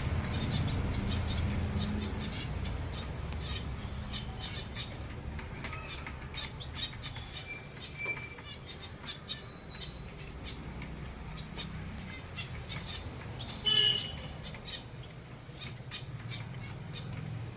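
Small finches (zebra finches and silverbills) chirping with many short, quick calls, one louder call about fourteen seconds in, over a low steady hum.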